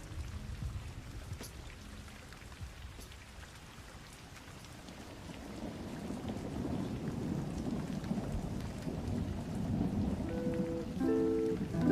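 Steady rain hiss with a low rumble of thunder swelling through the second half. Music notes come in near the end.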